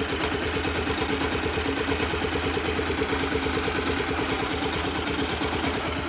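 Yamaha Factor 125's single-cylinder four-stroke engine idling with a steady, even beat. It runs quietly, with no 'tec' ticking: the engine knock has been cured by the repair.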